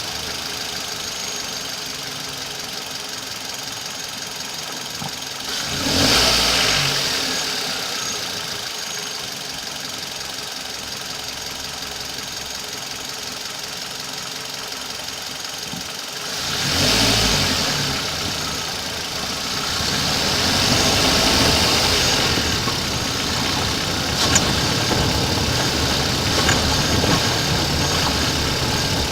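Hyundai i30 petrol engine running at idle and briefly revved twice, about six and seventeen seconds in, then held a little higher near the end. This is the car whose engine has an extraneous noise that the owner is trying to show.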